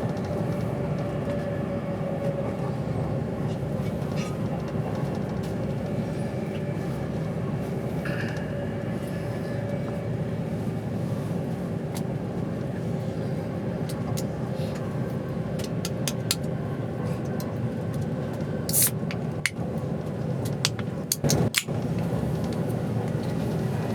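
Steady rumble and hum of a passenger train carriage running along the line, heard from inside, with a few sharp clicks or knocks near the end.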